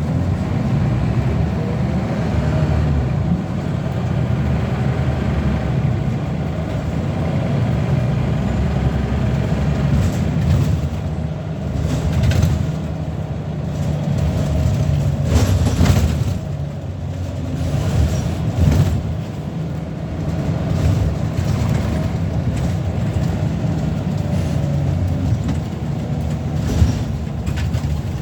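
Scania L94UB bus's diesel engine running under way, its pitch rising and falling as it pulls, with a few short knocks and rattles in the middle and near the end.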